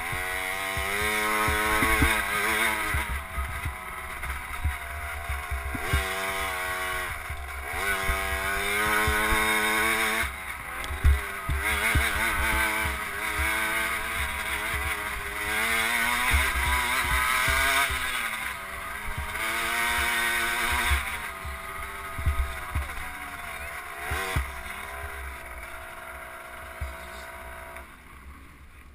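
KTM SX50 two-stroke single-cylinder engine heard onboard, revving up and dropping back again and again as the throttle is opened and shut around the track, with wind buffeting the microphone. Near the end it settles to a lower, steadier note and gets quieter as the bike slows.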